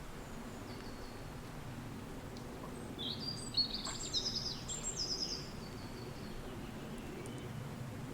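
Steady low rush of wind with a small bird singing one quick phrase of rapid high notes, starting about three seconds in and lasting a couple of seconds.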